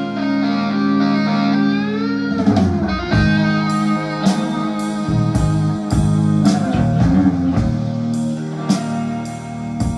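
Live rock recording played back through hi-fi loudspeakers: electric guitar holding sustained notes with a bend about two seconds in, over steady cymbal hits.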